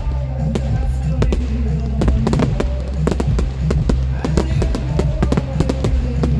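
Fireworks bursting in rapid, irregular bangs and crackles over loud music with a sung melody and steady bass.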